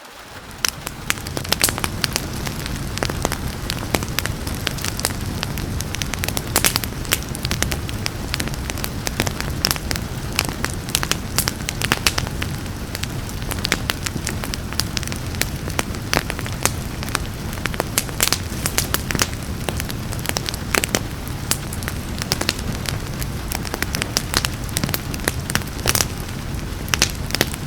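Wood fire crackling, with many sharp pops and snaps over a steady hiss of rain and a low rumble of the flames. The sound swells up from quieter within the first second.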